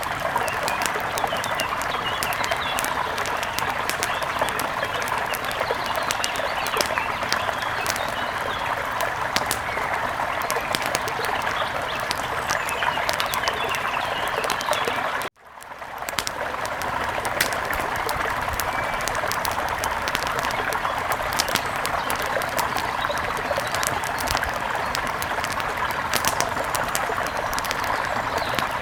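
Steady rush of a river with the sharp pops and crackles of a wood fire over it. About halfway through the sound cuts out for a moment and then fades back in.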